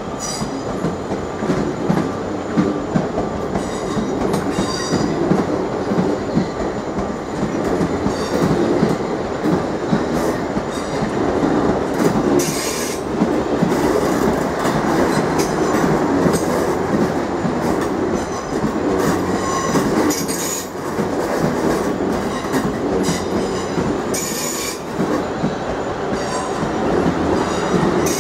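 South Western Railway electric multiple-unit trains rolling slowly through the station tracks: a steady rumble of wheels and running gear, with the wheels clattering over rail joints and points. Short high squeals come from the wheels now and then.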